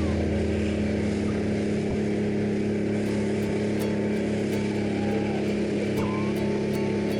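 Small fishing boat's outboard motor running steadily at an even speed.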